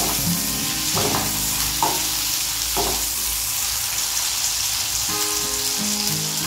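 Tomato and green chilli pieces sizzling in hot oil with black cumin seeds in a frying pan, stirred with a wooden spatula, with a few brief scrapes of the spatula in the first three seconds.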